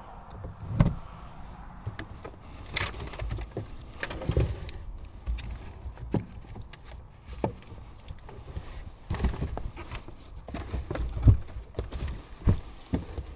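Irregular short knocks, clicks and low thumps, a dozen or so spread unevenly, the loudest about three-quarters of the way through, over a faint steady background.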